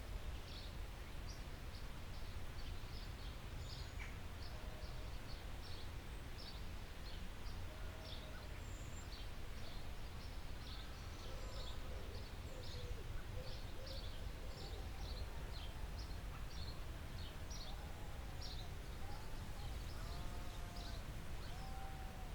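Forest birds chirping: a steady stream of short, high chirps throughout, joined about halfway in by lower, arched whistled notes from another bird, over a steady low rumble.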